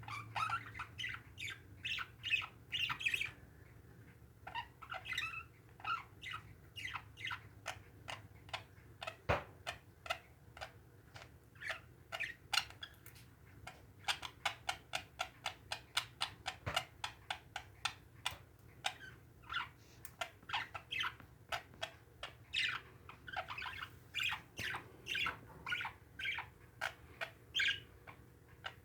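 Pet parakeets chirping and squawking in a steady stream of short calls, with a quicker run of chirps about halfway through.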